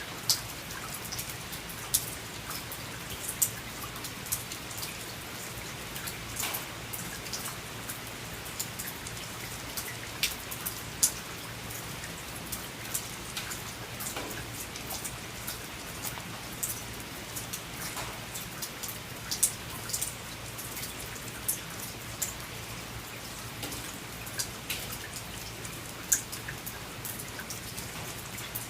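Rain falling on a porch: a steady hiss of rain with irregular, sharper drops striking close by every second or so.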